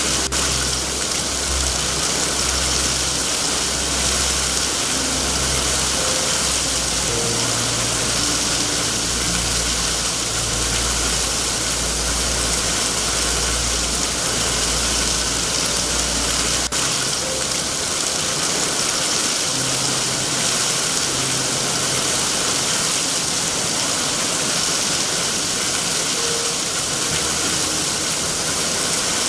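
Steady heavy rain hiss, with a low rumble underneath that drops away about 17 seconds in, at a single click.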